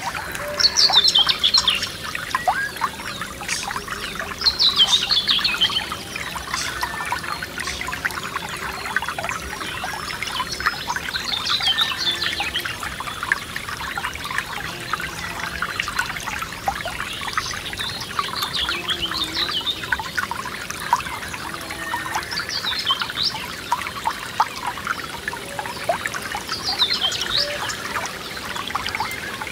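Forest stream trickling and babbling over stones. A songbird repeats a short, falling song phrase every few seconds.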